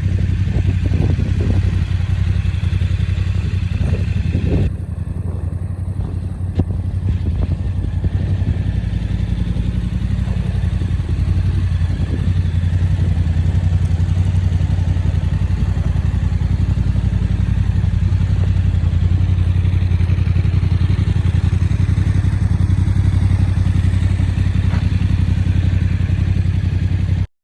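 Yamaha Tracer 7's 689 cc CP2 parallel-twin engine idling steadily, with a few light knocks in the first few seconds.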